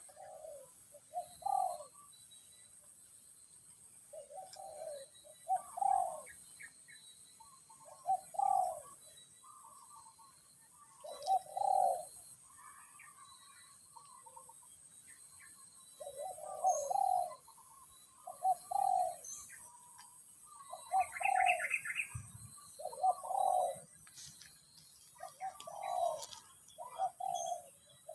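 Doves cooing: phrases of two or three low notes repeated every few seconds, over a steady, high, pulsing trill, with a brief higher bird chirp about two-thirds of the way through.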